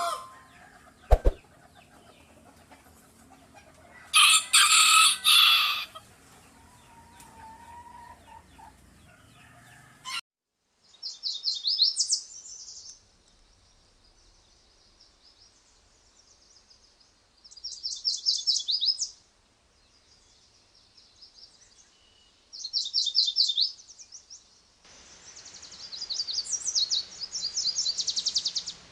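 Birds calling: a loud, harsh call lasting about two seconds near the start, then a small songbird singing four short, high, fast-trilled phrases a few seconds apart.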